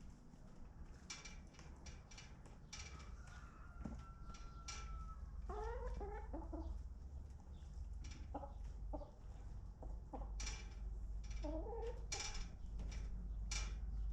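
Chickens clucking in two short bouts, around the middle and again near the end, with a thin held note a few seconds in and scattered sharp taps throughout, over a steady low rumble.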